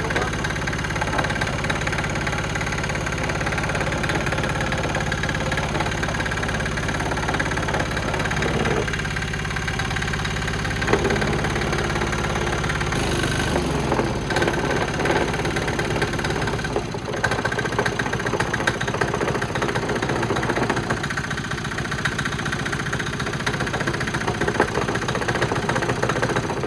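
Small single-cylinder Chinese diesel engine running steadily on a test stand, with its note shifting lower about halfway through.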